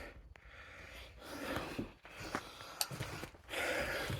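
A person climbing old wooden stairs: a few soft footfalls and clicks, with breathing.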